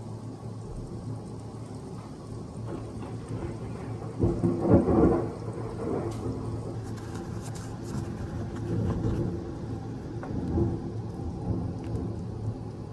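Thunder rumbling during a thunderstorm with steady rain. A loud peal starts about four seconds in and lasts around a second, followed by weaker rolling rumbles.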